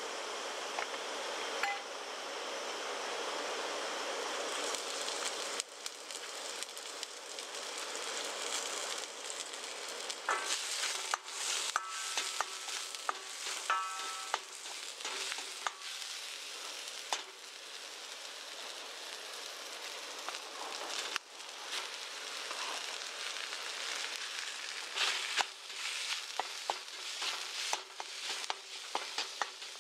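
Chopped garlic and leek, then ground meat, sizzling in oil in a wok. A spatula scrapes and clicks against the pan as the food is stirred, starting about a third of the way in.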